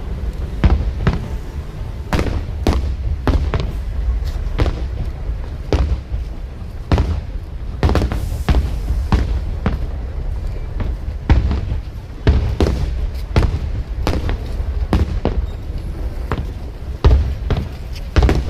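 Fireworks display: aerial shells bursting in a rapid, irregular run of booms and bangs, two or three a second, over a continuous low rumble.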